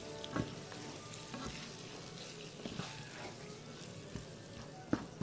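Minced pork sizzling steadily in a frying pan while its liquid cooks off, with a few short knocks from stirring, the loudest near the end.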